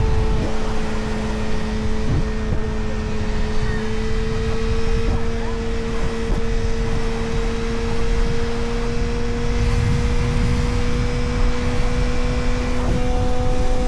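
Motorcycle engine running at a steady cruise, its pitch creeping slowly upward as it gently gains speed, over heavy wind rumble on the microphone.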